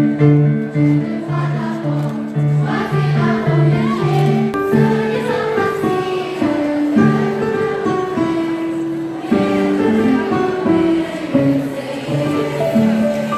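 A choir singing a melody in unison with instrumental accompaniment.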